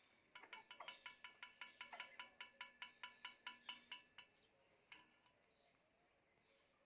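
A bird calling a quick series of short, ringing metallic notes, about five a second, for nearly four seconds, followed by a couple of single clicks.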